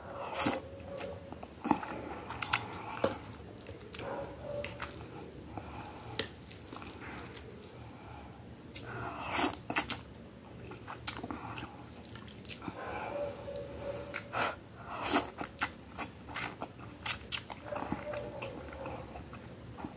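A person chewing instant noodles up close, with wet mouth clicks and smacks at irregular intervals.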